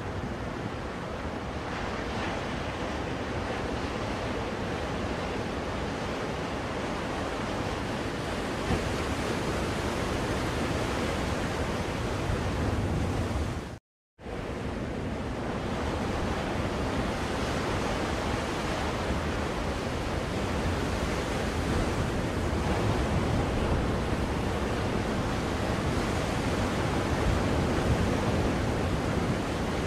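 Recorded ocean surf, a steady wash of waves played as white noise for soothing a baby. It cuts out to silence for a moment about halfway through, then resumes.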